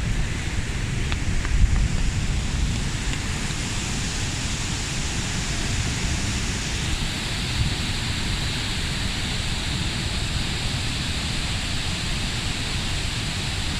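The Rhine Falls waterfall rushing in a steady wash of noise, with wind buffeting the microphone in low gusts during the first few seconds.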